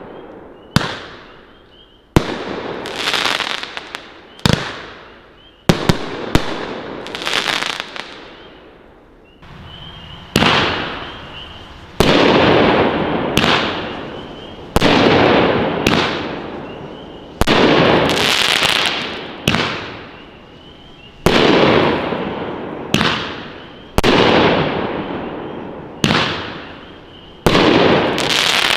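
Kripton Fireworks 'Kryptonite' 9-shot 200 g cake firing: sharp shot reports every second or two, each followed by a fading tail from the crown and crackle effects bursting overhead.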